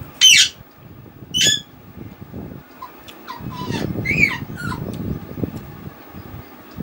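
Mouth sounds of eating rice and fish curry by hand: wet chewing and smacking, busiest in the middle. Several sharp, high chirps sweep downward over it, the two loudest near the start.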